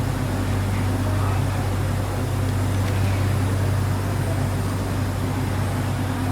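Metro Line 1 train running, heard from inside the car: a steady low hum and rumble with an even hiss over it.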